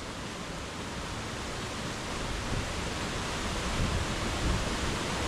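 Steady rushing noise of water pouring down Raymondskill Falls, a tall waterfall that is mostly frozen over.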